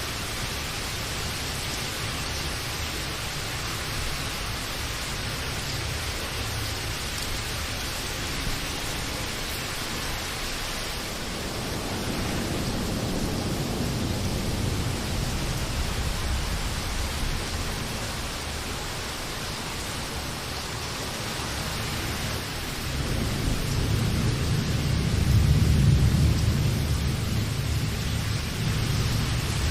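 Steady heavy rain hiss with low thunder rumbling under it, one roll building about twelve seconds in and a louder, longer one a little past the middle to near the end.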